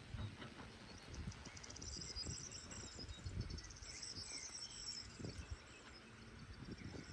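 Quiet outdoor ambience with high, rapid chirping trills in two spells, over soft irregular low knocks.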